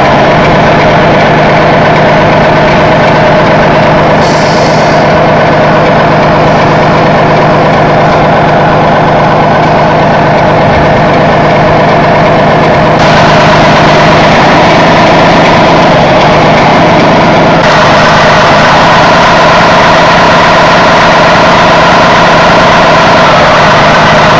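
Heavy truck-type engine idling steadily, a loud even hum that changes in tone abruptly about halfway through and again a few seconds later.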